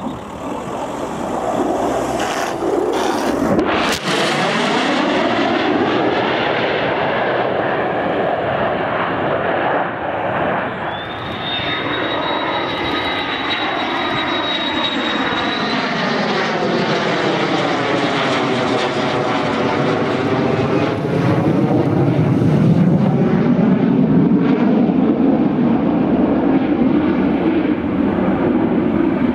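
Military aircraft flying past with loud, steady engine noise that sweeps in pitch as it passes. A thin high whine runs for several seconds about a third of the way in.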